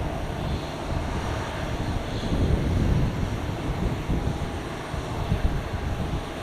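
Airliner jet engines running: a steady rush of noise with a faint whine.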